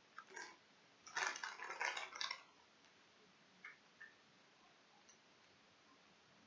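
Soft, wet mouth sounds of chewing gummy fruit snacks: a few short smacking clusters, then two faint ticks.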